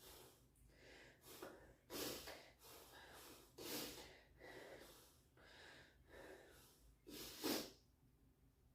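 A person breathing hard, faint, in and out about once a second, with a louder breath near the end: recovering between deadlift sets.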